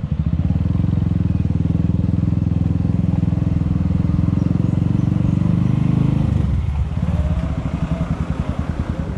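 Suzuki Thunder motorcycle engine running at low speed with a steady, even pulse, easing off about two-thirds of the way through.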